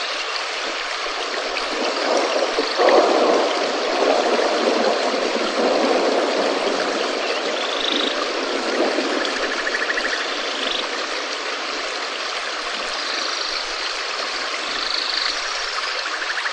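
Steady rain: a dense, even hiss of falling water that swells slightly a few seconds in. A few faint short chirps sound over it.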